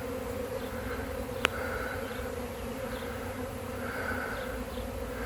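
Steady drone of a honey bee swarm, thousands of bees in flight as the colony swarms out of its hive. A single sharp click about a second and a half in.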